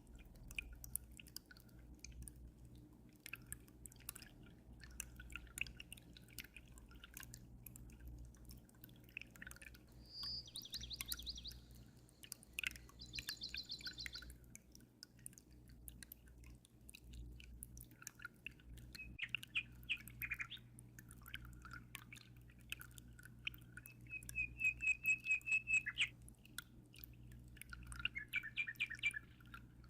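Small songbirds chirping in several short, fast trills, the loudest a run of repeated notes about two-thirds of the way through, over constant light dripping and trickling of aquarium water and a steady low hum.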